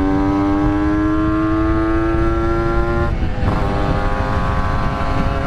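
Yamaha RX-King two-stroke single-cylinder motorcycle engine pulling under way, its pitch climbing slowly for about three seconds. About three seconds in there is a brief break and the pitch drops, as at an upshift, then it runs on at a steady lower pitch. Wind rumble on the microphone sits underneath.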